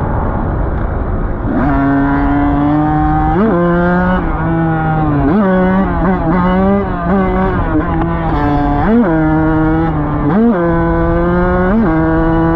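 Dirt bike engine running at a steady speed, with quick throttle blips that rise sharply in pitch and drop back, repeated about every one to two seconds.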